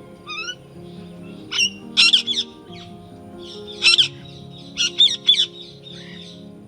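Several short, sharp bird calls, some in quick groups of two or three, over soft, steady background music.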